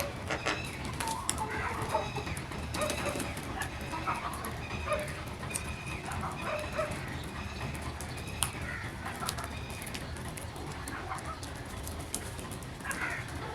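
Crows calling: short calls repeated every second or so, over a steady low hum.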